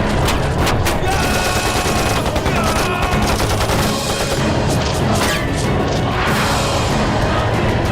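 Battle-scene soundtrack of rapid rifle and machine-gun fire in volleys, with a dramatic music score running under it.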